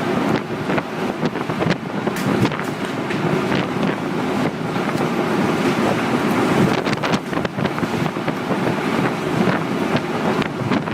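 Tornado-force wind blasting across the microphone in a continuous rush, with many short knocks and rattles scattered through it.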